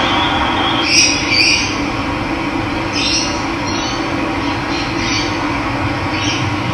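Steady rush of running water, with several short, high bird chirps over it.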